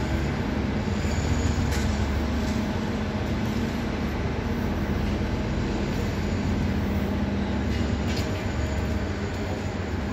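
Train at a station platform, its steady low running hum going on throughout, with a few light clicks, about two seconds in and again near eight seconds.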